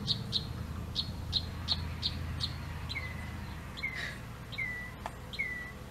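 A bird chirping: a quick even series of short high chirps, two or three a second, then from about halfway a slower run of calls that each slide down in pitch, about one a second.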